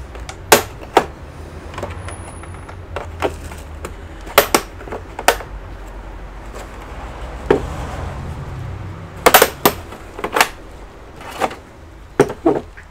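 About a dozen sharp, irregular clicks and knocks, some in quick pairs, from hard plastic being handled on a workbench, over a steady low hum.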